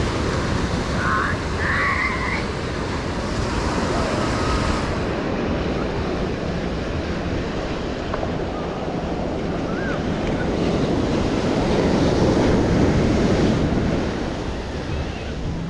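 Ocean surf washing onto a beach, one wave building to a louder break about twelve seconds in, with wind buffeting the microphone. A few short high wavering calls sound about a second in.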